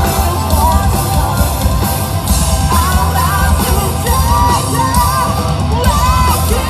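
A live band playing loud, with drums, bass and guitars throughout; a sung vocal line comes in about three seconds in.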